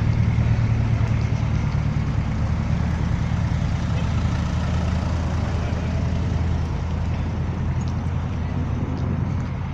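Car engine running steadily at low revs close by, its deep note easing down slightly toward the end.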